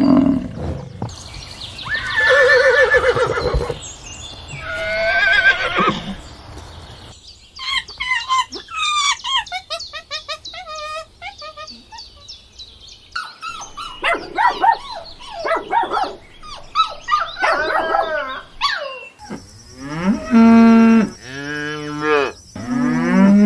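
A run of different animal calls, one clip after another: a few long calls, then many short chirping calls, then near the end long calls with a strong low pitch.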